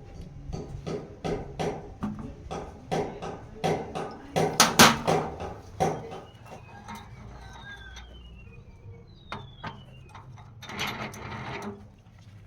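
A run of sharp knocks, about two a second, loudest about four to five seconds in. A few faint falling chirps follow, then a short rasping noise near the end.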